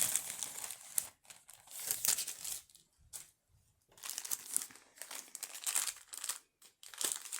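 Crinkling and rustling of small jewelry packaging being handled, in irregular bursts with short pauses.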